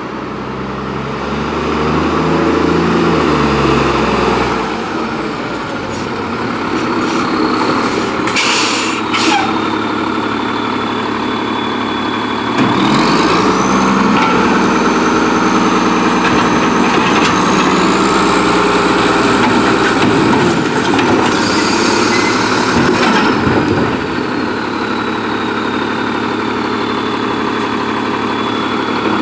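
Freightliner Condor garbage truck with an Amrep automated side-loader body, its engine running under load while the hydraulics work. A high hydraulic whine rises about 12 seconds in and falls away near 21 seconds, and short air hisses come at about 9 and 22 seconds.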